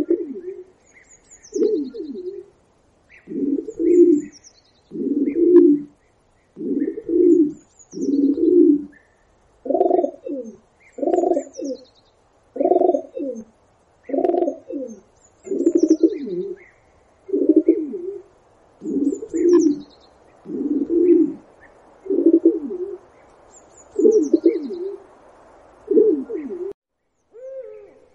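A pigeon-family bird cooing over and over, low calls about one every second and a half, with faint high chirps from small birds behind.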